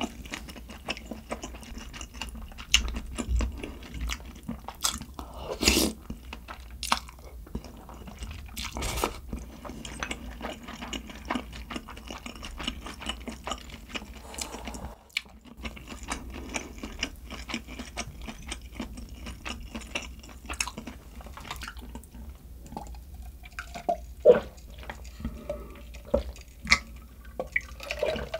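A person eating close to the microphone: irregular chewing with wet smacking clicks and a few louder bites.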